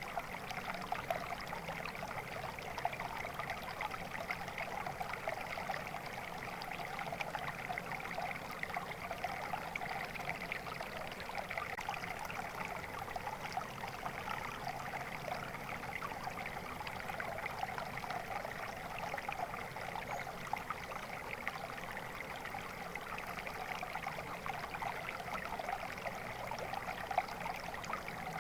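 Shallow stream flowing and trickling steadily, a continuous babble of many small splashes without pauses.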